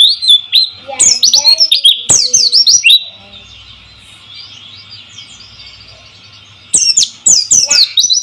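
White-eye (pleci) singing in fast spells of high, sharply down-slurred chirps. One spell comes over the first three seconds and another near the end, with fainter twittering between them.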